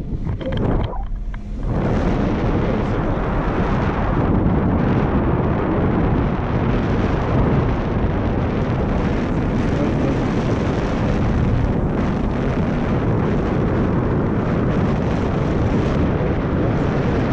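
Wind rushing over the microphone in a steady, loud rumble, after a brief lull about a second in: the airflow of flying along under a parasail towed above the sea.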